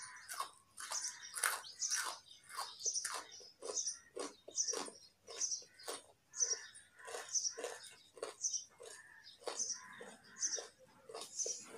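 Raw carrot being chewed close to the microphone, a steady run of crunchy chews at about two a second.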